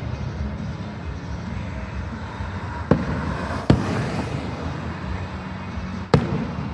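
Fireworks bursting overhead: three sharp booms, the first about three seconds in, another a second later, and one near the end, over a steady background of music.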